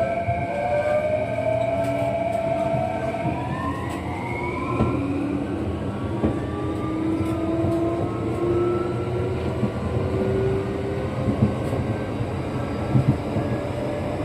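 Kintetsu 9020-series electric train heard from inside the car: the inverter and traction motors whine in several tones that rise in pitch in steps as the train picks up speed, over a steady rumble of wheels on rail.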